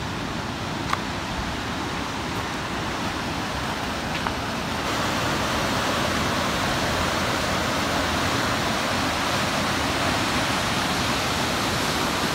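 Steady rushing of a waterfall, an even hiss that grows louder about five seconds in and then holds.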